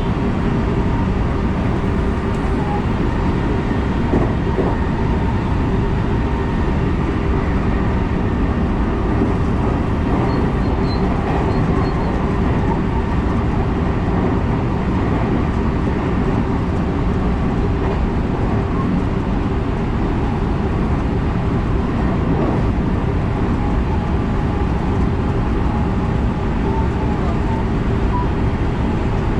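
JR West electric commuter train running steadily along the line, heard from inside the passenger car behind the driver's cab: a continuous low rumble of wheels on rails with a faint steady hum.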